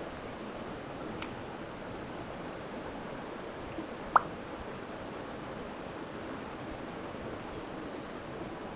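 Steady rush of stream water, with a single sharp water plop a little after four seconds in.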